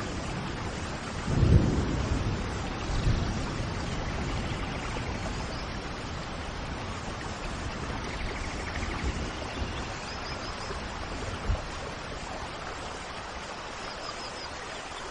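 Steady rain with a low thunder rumble about a second and a half in and a weaker one soon after. Faint short, high bird chirps come through the rain twice near the end.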